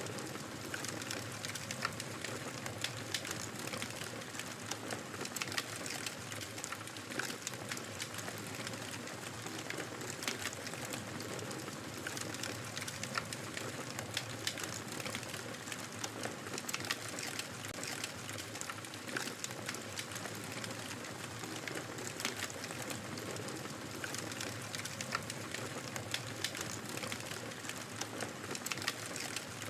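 Wood fire crackling in a fireplace: a steady hiss of burning with frequent, irregular sharp pops and snaps.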